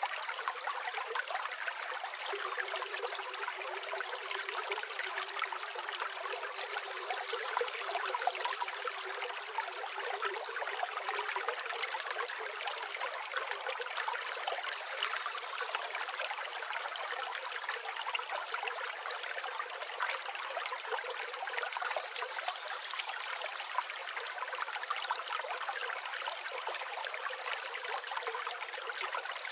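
River water flowing in a steady, even rush with a light trickling texture.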